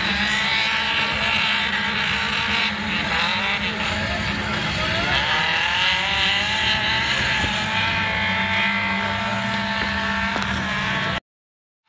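Racing car engines running hard on a dirt track, the engine note rising and falling with the revs as the cars are driven round. The sound cuts off abruptly near the end.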